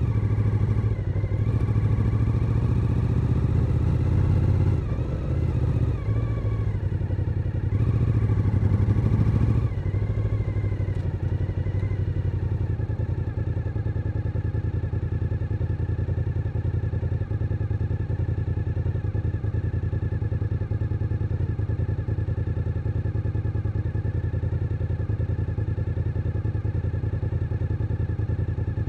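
Suzuki SV1000N's 90-degree V-twin engine running, rising and falling in pitch through the first ten seconds or so as the bike is ridden, then dropping back to a steady, lower idle for the rest.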